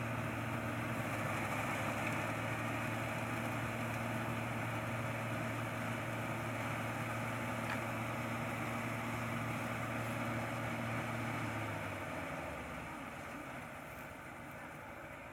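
Combine harvester engine running at a steady speed, then cutting out about twelve seconds in, leaving a fading background noise.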